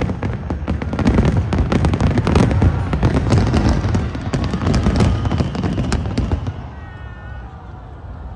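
Fireworks display over a harbour: a dense run of booms and crackling that dies away about six and a half seconds in, leaving faint crowd voices.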